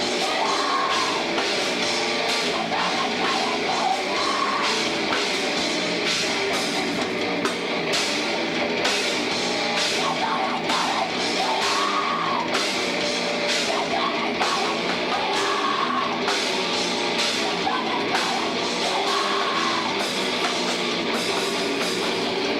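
Live heavy rock band playing loudly, with a pounding drum kit under dense, distorted instruments.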